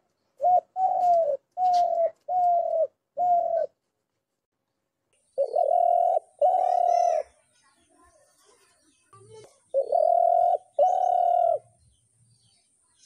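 Spotted dove cooing: a quick run of five short coos, then after a pause two longer coos, and near the end two more. Faint chirps of a small bird are heard in the middle, and a faint steady high tone runs from the middle on.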